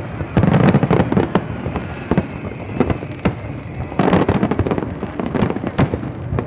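Aerial fireworks display: a rapid series of sharp bangs and crackling bursts over a continuous rumble, densest about half a second in and again around four seconds.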